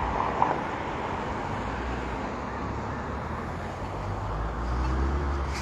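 Road traffic passing: a steady hiss of tyres and vehicles, with a low engine rumble building in the second half.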